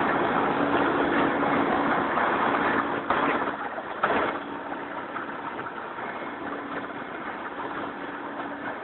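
Mil Mi-17V-5 helicopter running: a steady rush of engine and rotor noise with a constant hum. The noise drops noticeably a little over four seconds in and stays lower.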